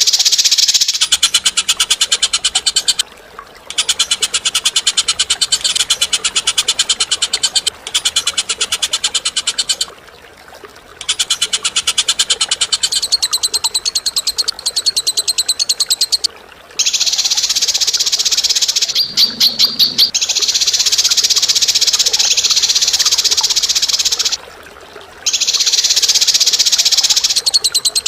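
A bird giving long, rapid chattering trills, each phrase lasting several seconds, with brief pauses between them. There are a few separate sharper notes about two-thirds of the way through.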